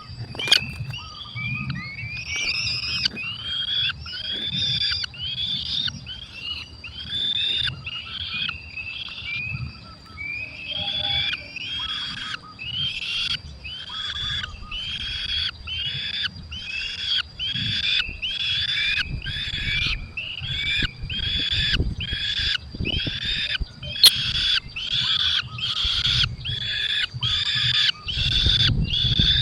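Falcon chicks calling repeatedly in the nest: a long series of high, shrill calls, about two a second, coming faster about halfway through, over a low rumble.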